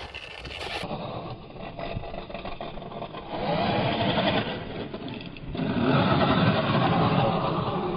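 Electric motor of a Losi Baja Rey 1/10 RC trophy truck whining as it is driven, its pitch wavering with the throttle, mixed with tyre and dirt noise. It grows louder about three and a half seconds in and again about five and a half seconds in.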